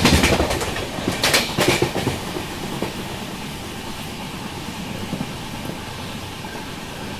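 Deccan Express passenger coach running along the track, heard from the coach doorway. The wheels clatter over rail joints in two bursts in about the first two seconds, then settle into a steadier rolling rumble.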